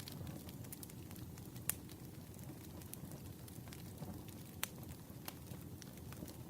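Campfire crackling: burning wood gives a steady low hiss with scattered sharp pops, the strongest under two seconds in and another at about two-thirds through.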